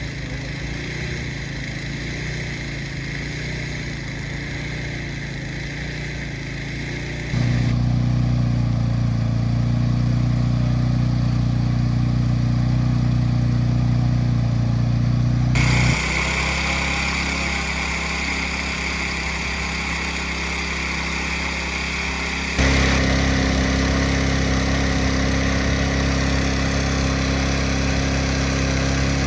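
Small petrol engine of a hot-air-balloon inflation fan running steadily, typical of the cold-inflation stage before take-off. Its note and loudness jump abruptly three times.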